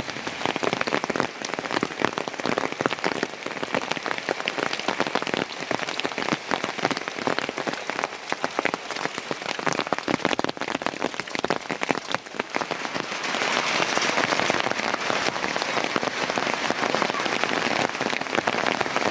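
Heavy rain falling, with many distinct drop strikes. About two-thirds of the way through the rain gets louder and denser, into a steady hiss.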